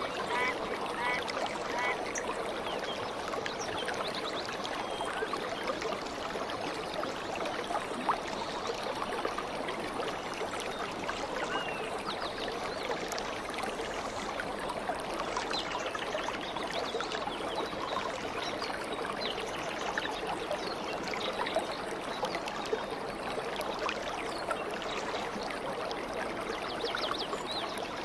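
Stream flowing steadily, with short bird chirps scattered throughout and a duck quacking several times in the first couple of seconds.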